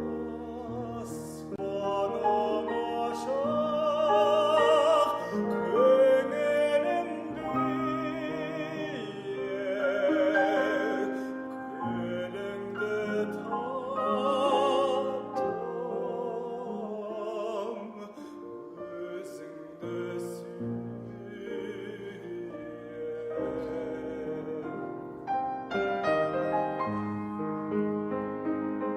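Operatic solo singing with wide vibrato, accompanied by piano.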